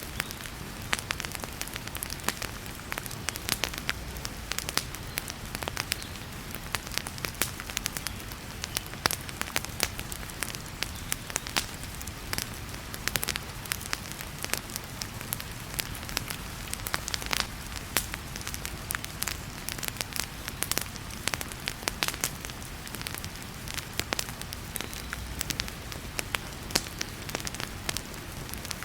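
Wood fire crackling in a fireplace, with frequent sharp pops and snaps over a steady hiss of heavy rain.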